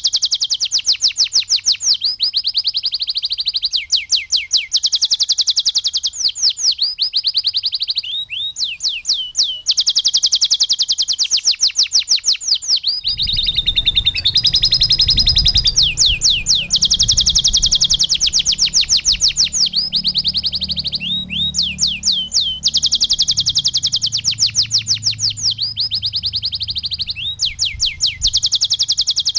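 Domestic canary singing in long, fast trills of repeated high notes, phrase after phrase with short gaps, some notes sweeping downward. A low rumble joins underneath about halfway through.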